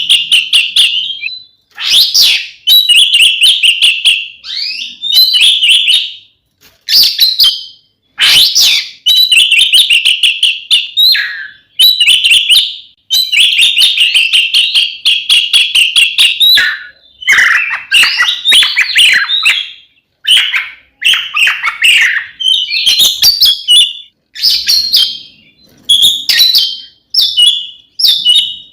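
Oriental magpie-robin (kacer) singing loudly in long phrases of rapid trills, chatter and whistles, with short breaks between them. This is the full, combative 'ngeplong tarung' song used as a lure to rile other male magpie-robins into singing.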